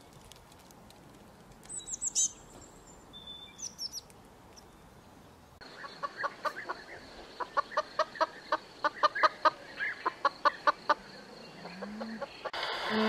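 A white hen clucking: a run of short, quick clucks in the second half. Earlier, a small bird gives a few high, falling chirps, and near the end a low drawn-out animal call begins.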